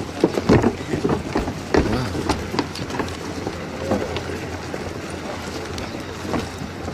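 Irregular knocks and footfalls of people moving about, densest in the first few seconds, with faint voices under a steady low rumble.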